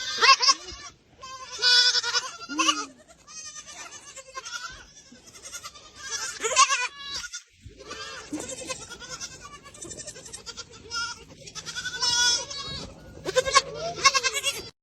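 Goats bleating, a string of separate high calls one after another.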